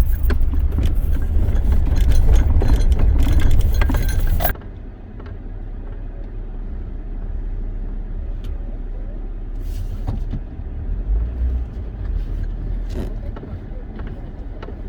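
Car driving, heard from inside, with a loud low rumble and clattering rattles; about four and a half seconds in it drops suddenly to a quieter, steady low rumble.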